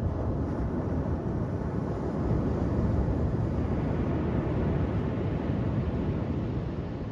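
Ocean surf breaking on a beach: a continuous low rush of water that swells and brightens about two to four seconds in as a wave breaks.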